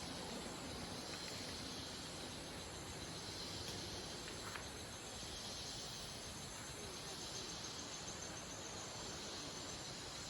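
Steady high chorus of insects such as crickets or cicadas, swelling and fading slowly, over a faint background hiss.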